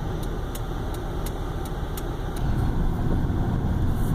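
Car running, with a steady low rumble that grows louder about two and a half seconds in, and a light regular ticking about three times a second.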